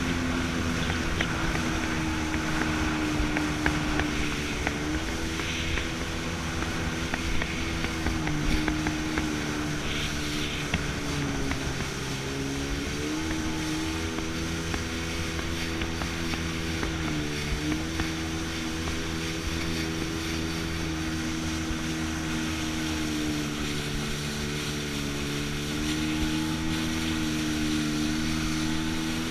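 Jet ski engine running steadily under way, its pitch dipping briefly and recovering a few times, over a steady rush of water and wind.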